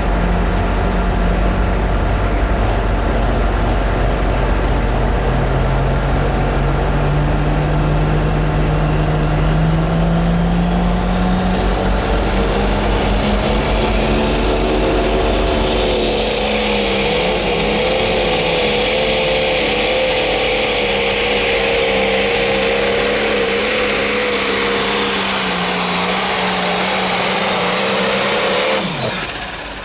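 Turbocharged Pro Stock diesel pulling tractor making a run at full throttle. The engine pitch climbs slowly over the first ten seconds, then a high turbo whine and hiss rise over it and hold. Near the end the engine pitch falls sharply and the sound drops away as the throttle is cut.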